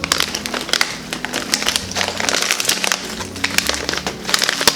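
Crinkling and crackling of an MRE plastic pouch being handled and opened, over background music with a steady bass line.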